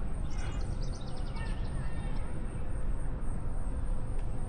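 A small bird singing a rapid trill of short, evenly spaced high notes lasting about two seconds, over a steady low rumble.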